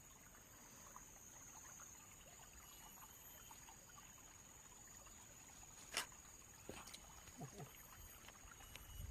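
Near silence: faint steady background hiss with a thin high whine, broken by one sharp click about six seconds in and a few soft ticks after it.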